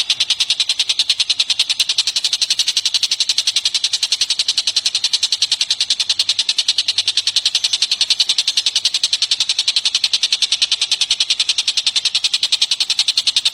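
A bird calling in a fast, steady run of high repeated notes, about seven a second, without a break, as played on a songbird training (masteran) recording.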